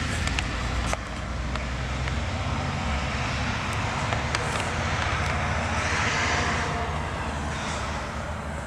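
Steady low engine rumble of a vehicle running, with a broad hiss that swells about six seconds in and then fades, like something passing by.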